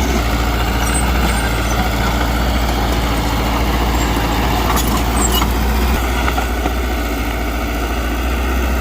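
Diesel engine of heavy earthmoving machinery running steadily under a deep, constant hum, with a few sharp metallic clicks about five seconds in.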